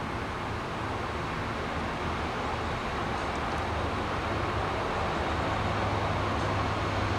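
Freight train rolling past: a steady rumble of cars on the rails with a low hum, slowly growing a little louder.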